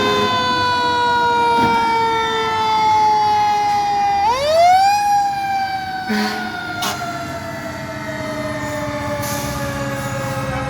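Fire truck siren winding down in a slow falling wail, spun back up with a quick rise about four seconds in, then winding down again. A couple of short knocks sound just after the rise, and a low truck engine hum runs underneath.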